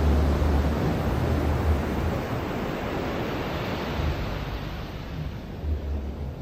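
Ocean surf washing on a beach, a broad hiss that fades away over several seconds as the wave spends itself. Wind buffets the microphone with low rumbles at the start and again near the end.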